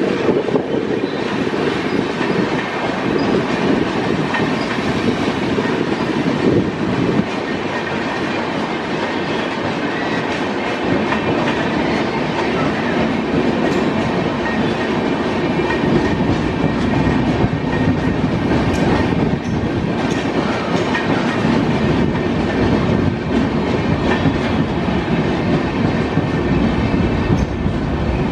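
Passenger train's coaches rolling past, their wheels running on the rails with a steady, loud rumble.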